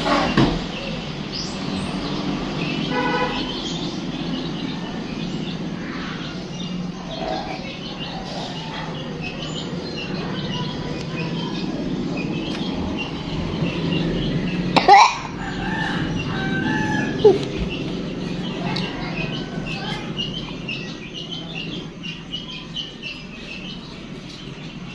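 Birds calling and chirping over a steady background hum, with one pitched call about three seconds in and a sudden loud sound about fifteen seconds in.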